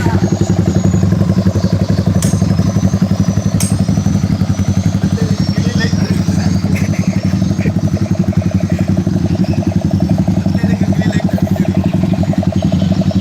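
Yamaha Vixion's single-cylinder four-stroke engine running at a steady idle through an aftermarket JSR exhaust, an even, rapid pulsing with no revving.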